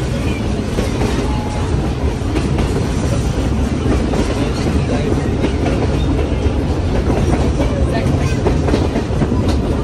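Steady heavy rumble of a passenger carriage rolling along the rails, with the wheels clicking irregularly over rail joints, heard from inside the carriage.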